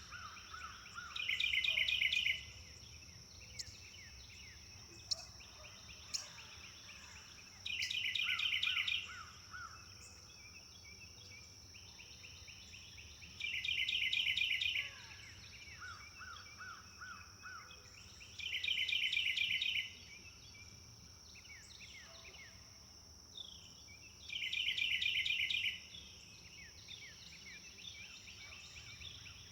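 A songbird singing the same fast trilled phrase five times, each about a second and a half long and about five to six seconds apart, with fainter bird calls in between. A steady high-pitched insect drone runs underneath.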